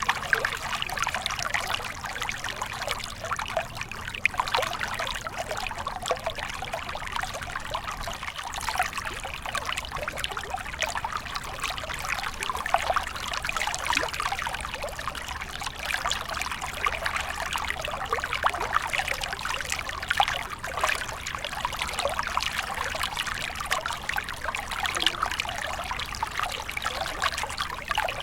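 A small stream of water flowing and trickling steadily, with a constant splashing babble of small droplets and ripples.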